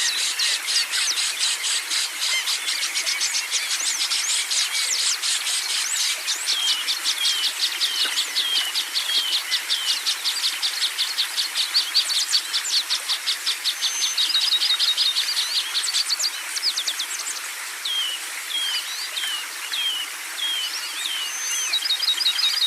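A dense chorus of small songbirds chirping and trilling all at once, layered as a birdsong therapy track. Through it runs a short note that slides downward, repeated about twice a second in two runs, about a third of the way in and again toward the end.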